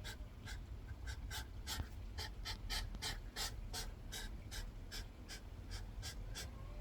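Hedgehogs huffing in short, rapid, hissy puffs, about three a second, the agitated huffing of hedgehogs squaring up in a territorial fight.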